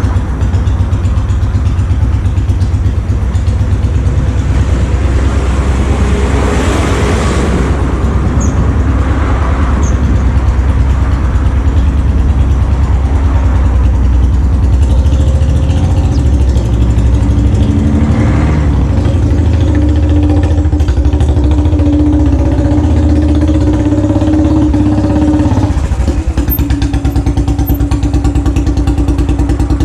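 Royal Enfield Classic 500's single-cylinder engine running loudly through a newly fitted silencer, its exhaust beating in a fast, even thump. The engine speed climbs in the second half and drops sharply about 26 seconds in before steadying again.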